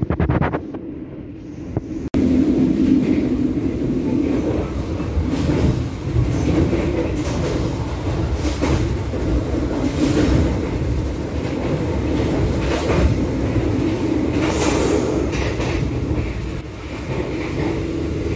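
Passenger train running at speed, heard from aboard: a steady rumble of wheels on the rails with scattered clicks from the track. The level changes abruptly about two seconds in.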